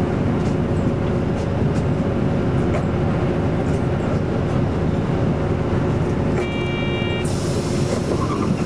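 Isuzu Erga Mio city bus with an Aisin automatic transmission, heard from inside the cabin while running, a steady drone with a held whine. About six and a half seconds in, a short electronic tone sounds for under a second, and then a high hiss starts and runs on.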